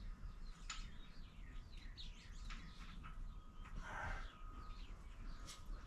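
Faint chirping of small birds, with a few sharp clicks and knocks of something being handled.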